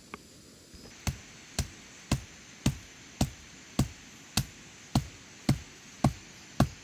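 Steady chopping or knocking: hard, evenly spaced strokes at about two a second, beginning about a second in.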